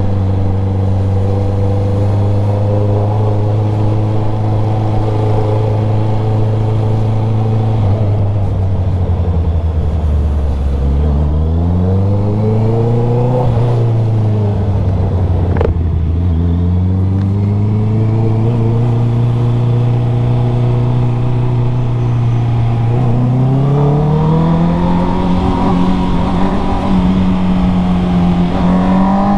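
Motorcycle engine under way, its note rising and falling with the throttle: steady at first, dropping about eight seconds in, climbing briefly, dipping again, then settling and climbing to a higher steady note from about 23 seconds in. A single sharp click about 16 seconds in.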